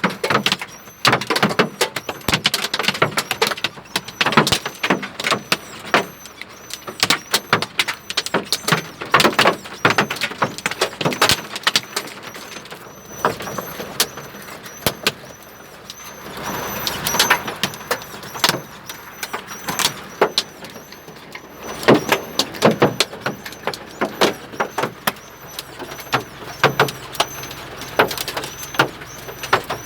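Hail pelting a hard surface: many sharp, irregular clicks and knocks, thicker in some stretches and sparser in others, over a steady hiss.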